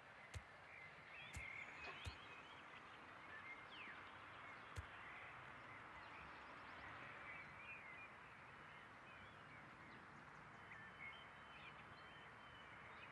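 Faint outdoor ambience with distant birds chirping now and then, short high chirps scattered throughout, and a few soft clicks in the first five seconds.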